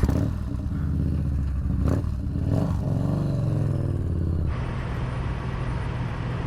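Motorcycle engine running, its pitch rising and falling with the throttle; about four and a half seconds in it changes to a steady engine note under rushing wind, as when riding at speed.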